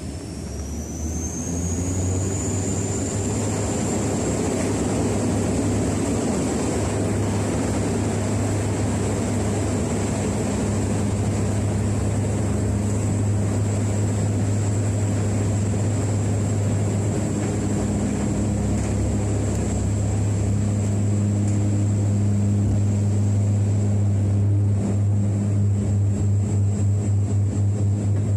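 Airliner engines heard from inside the cabin, spooling up to take-off power: a high whine rises over the first two seconds, then holds steady over a loud, even rumble.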